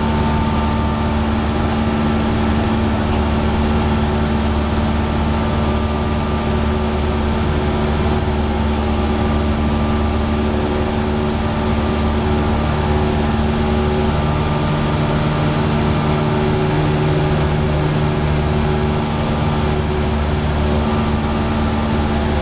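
Cessna 172R's four-cylinder Lycoming piston engine and propeller running in flight, a steady drone with several even tones over a rushing noise.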